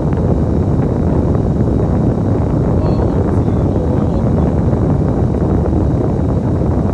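Steady low rumble of a bus's engine and running gear, heard from inside the cabin on the move.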